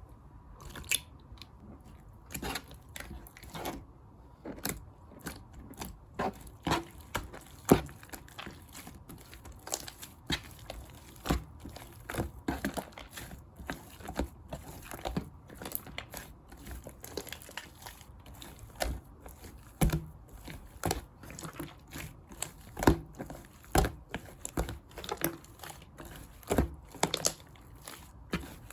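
Hands pressing, poking and stretching blue clear slime topped with shaving foam, giving irregular sharp clicks and crackles several times a second.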